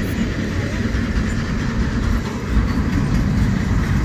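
Intermodal container freight cars rolling past, steel wheels on rail, a steady loud rumble.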